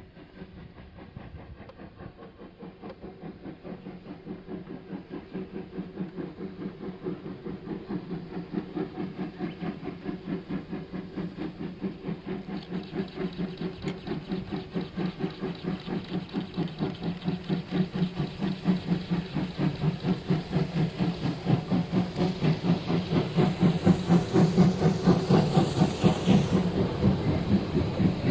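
Chichibu Railway Paleo Express steam locomotive (C58 363) working a train: an even rhythm of exhaust chuffs, a few a second, growing steadily louder as it approaches.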